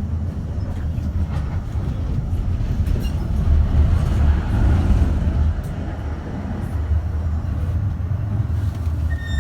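Düwag M8C tram running along the track, a steady low rumble of motors and wheels that grows louder around the middle.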